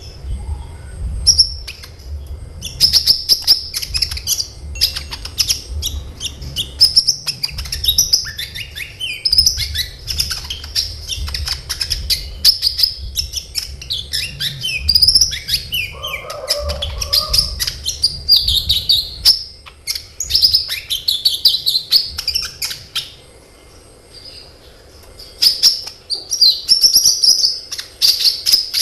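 A sunbird (kolibri ninja) singing rapid, high-pitched chirps and chattering trills in long, tightly packed runs, with a short pause about three-quarters of the way through.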